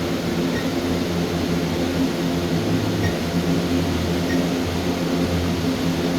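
Steady machinery hum made of several low steady tones, like a ventilation fan or air handler, with a few faint short high beeps from an alarm keypad as keys are pressed.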